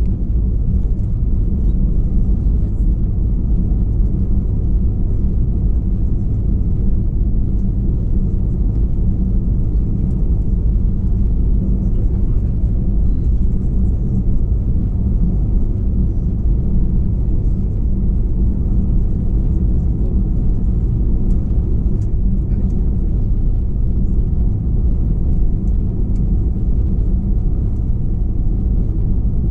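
Cabin noise inside an Airbus A321-211: a steady, loud low rumble of its CFM56 engines and the airframe, with no change in pitch.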